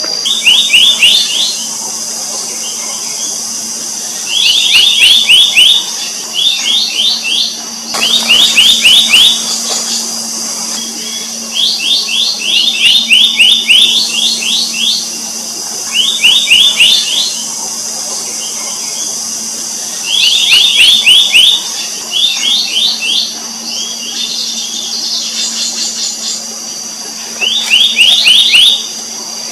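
Black-naped monarch calling in short bursts of rapid, sharp high notes, each burst about a second long and repeated every two to three seconds. A steady high-pitched drone runs underneath.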